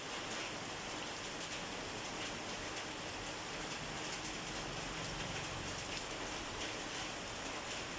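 Steady rain falling, an even hiss of rain on a surface with scattered individual drops.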